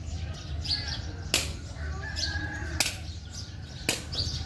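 Three sharp hits, each a second or more apart, over a steady low rumble, with birds chirping.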